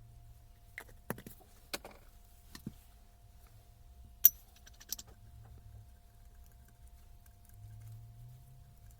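Metal parts and tools clinking as they are handled: a handful of sharp, separate clicks over the first five seconds, the loudest about four seconds in.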